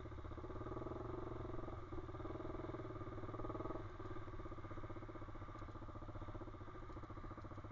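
Pit bike's small single-cylinder engine running at a steady note, easing off slightly about four seconds in.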